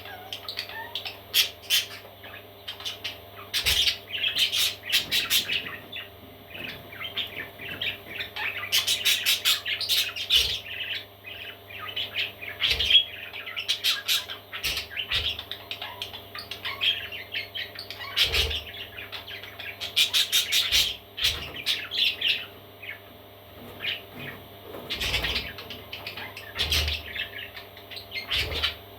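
Parrot chicks chirping and squawking in repeated bursts of short calls, over a steady low hum.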